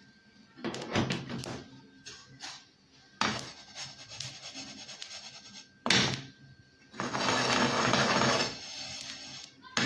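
A utensil stirring and scraping sesame seeds around a pan as they are lightly dry-roasted, in several bouts, the longest and loudest near the end.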